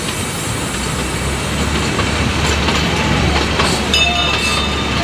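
Matheran narrow-gauge toy train running, heard from aboard: a steady noise of wheels on the track with a low hum that grows stronger about a second in.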